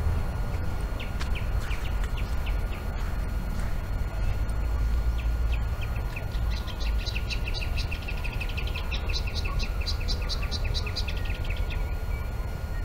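A bird calling: a few scattered chirps at first, then from about halfway through a fast run of repeated chirps, about five or six a second, that stops near the end. Under it runs a steady low rumble.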